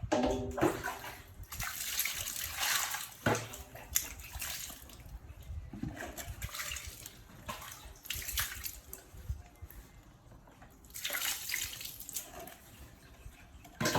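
Water splashing and sloshing in irregular bursts, as a baby monkey moves about in a small pool of water.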